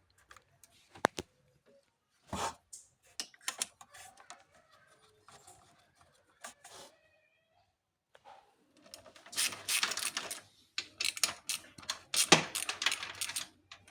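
Scattered clicks and knocks of hand tools and engine parts being handled during work on the throttle body. About two-thirds of the way through, this gives way to denser scraping and rattling.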